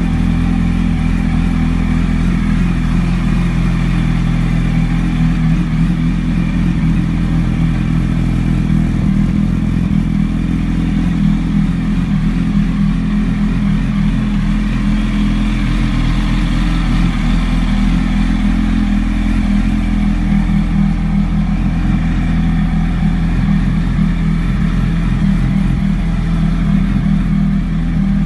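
Yamaha R1's inline-four engine idling steadily after a cold start.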